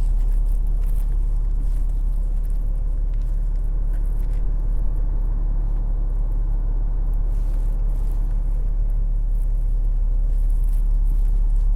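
Steady low rumble of outdoor urban ambience, with a few faint clicks near the start and near the end.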